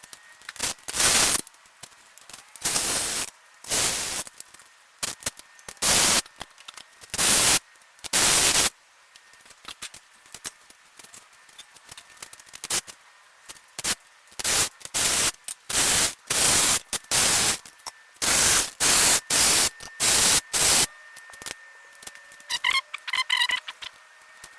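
Repeated short bursts of metallic rattling at irregular intervals, with no deep sound in them, typical of an engine hoist's chain being pulled through by hand while the engine is lowered. A brief high squeal comes near the end.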